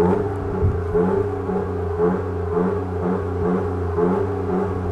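Toyota GR Yaris's turbocharged three-cylinder engine idling with a steady low drone, under background music with an even beat of about two notes a second.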